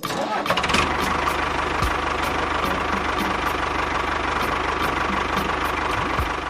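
An engine running steadily at idle, with a regular ticking about three times a second.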